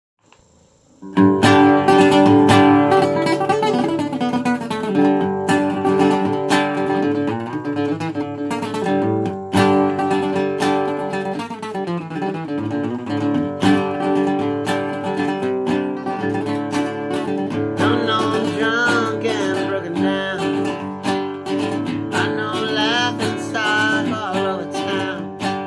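Strummed acoustic guitar playing a country song's intro, starting about a second in. Near the end, a wavering higher melody line joins over the chords.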